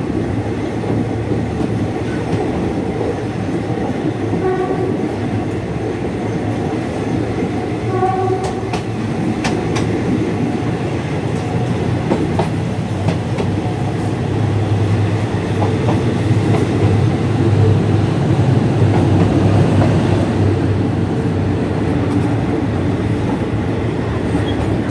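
Passenger train running on rails, heard from an open carriage window: a steady low rumble of wheels on track, with scattered clicks as the wheels pass rail joints and points, the rumble growing louder past the middle. Two short horn blasts sound faintly, about four and eight seconds in.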